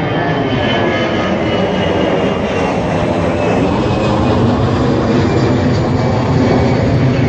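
Car engine running steadily at close range, a loud, even mechanical drone with no revving.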